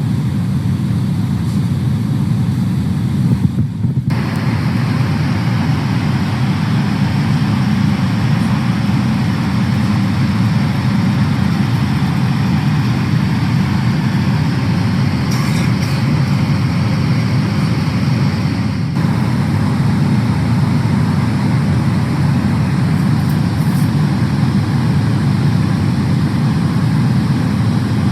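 Steady low rumble of a Boeing 777-300ER's engine and airflow noise heard inside the cabin, with a brief break about four seconds in and another past the middle.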